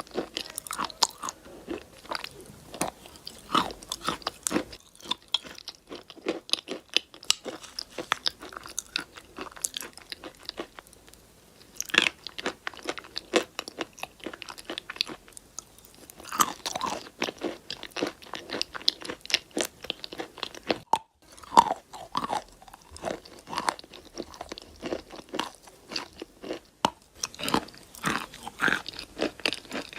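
Close-miked crunching and chewing of chalk: hard bites cracking it, then steady crunchy chewing, with a brief lull about a third of the way in and a sharp loud bite just past the middle.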